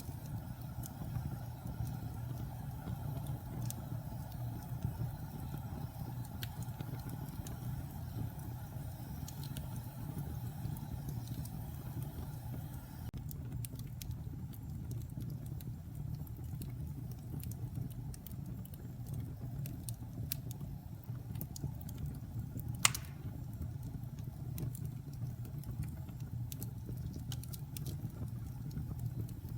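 Wood fire in a fireplace burning with a steady low rumble and scattered small crackles, and one louder pop about two-thirds of the way through.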